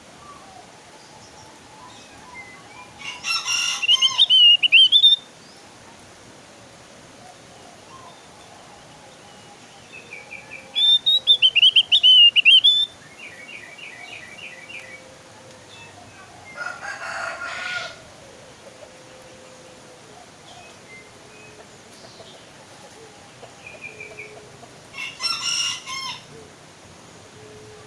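Javan grey-throated white-eye (opior jawa) singing in short, loud bursts of rapid, high warbling whistles, four phrases a few seconds apart, with a quick run of chips after the second. The third phrase is rougher and noisier than the others.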